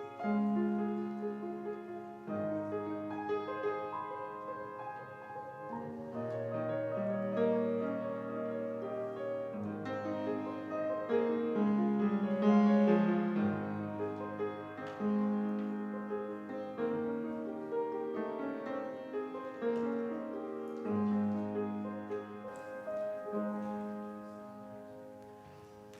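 Slow instrumental keyboard music, sounding like piano, playing sustained chords that change every second or two and fade away near the end.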